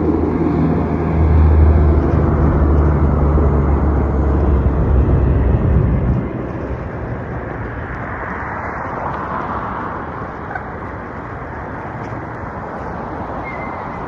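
A motor vehicle's engine hums close by over wind and road noise. The engine hum drops away suddenly about six seconds in, leaving steady road and wind noise.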